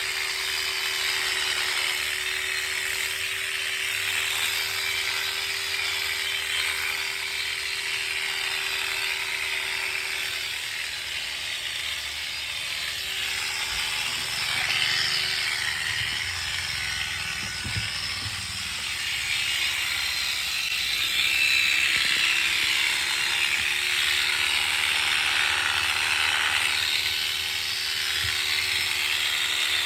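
Electric sheep-shearing clippers running steadily with a constant motor hum and a hiss. The hum's pitch sags slightly at times as the blades meet resistance.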